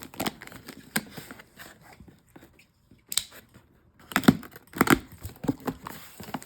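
Packaging being handled and crinkled while items are unpacked from a box: irregular rustles, crackles and clicks, loudest and busiest about two-thirds of the way through.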